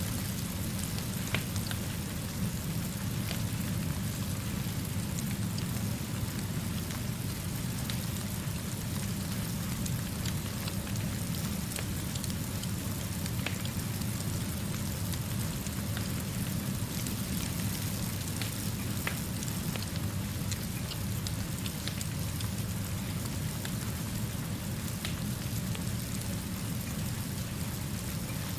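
Steady rainfall, an even hiss over a low steady rumble, with scattered sharp ticks throughout.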